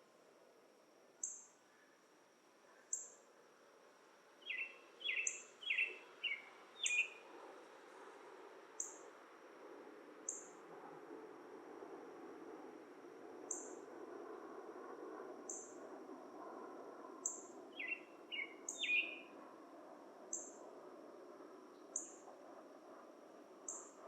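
Dusk forest chorus: a steady high insect drone with a high chirp repeating evenly about every second and a half to two seconds. A bird gives a quick run of four or five short notes about five seconds in, and another run of three near the end.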